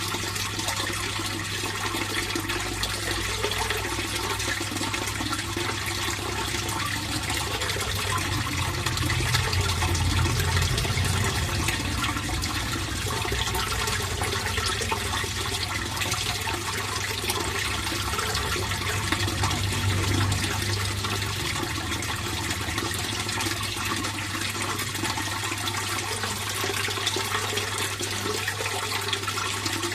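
Water flowing and splashing steadily in a fish pond, with a steady low hum underneath, swelling a little twice.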